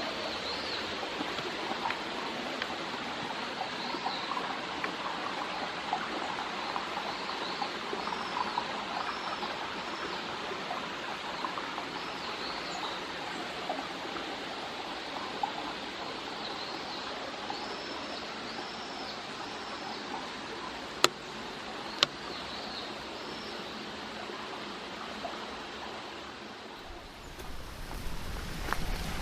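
Steady rush of a small mountain stream, with repeated short high chirps from small birds and two sharp clicks about two-thirds of the way through.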